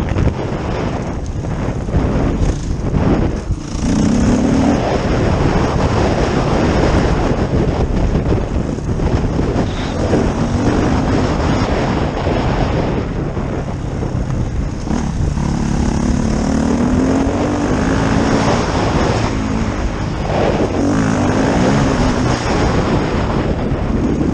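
Dirt bike engine being ridden hard, its pitch rising and falling again and again as the throttle opens and closes, under heavy wind noise on the microphone.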